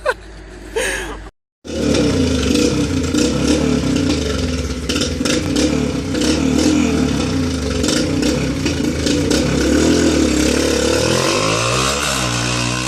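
2005 Yamaha TT-R125LE dirt bike's small four-stroke single-cylinder engine running hard under throttle. It comes in suddenly about a second and a half in, and near the end it revs up and down in quick swings.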